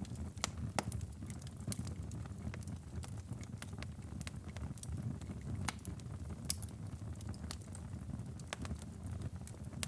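Wood fire crackling, with irregular sharp pops, over a steady low rumble.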